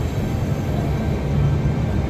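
V set double-decker electric intercity train pulling away from the platform, its carriages passing with a steady low rumble.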